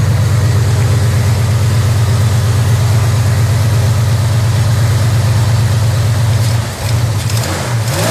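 1967 Ford F250 Camper Special's engine idling steadily on freshly replaced ignition points, then revved up and back down near the end.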